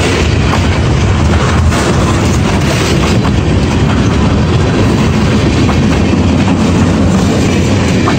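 Freight train cars rolling past close by: a loud, steady noise of the train running over the rails, with scattered wheel clicks over the rail joints.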